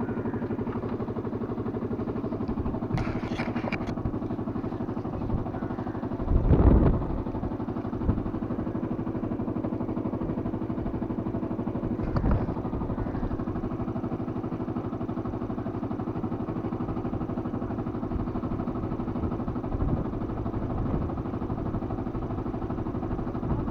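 Motorcycle engine idling steadily, with one short louder burst about six and a half seconds in.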